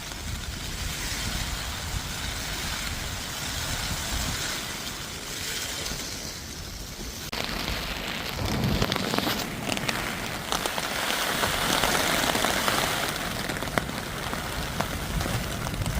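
Heavy rain falling on a hammock tarp, with wind gusting. The sound changes abruptly about seven seconds in and is louder in the second half.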